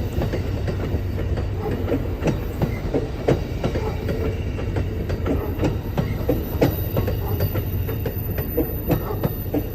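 Amtrak Southwest Chief passenger train rolling past as it departs: a steady low rumble with wheels clicking irregularly over rail joints.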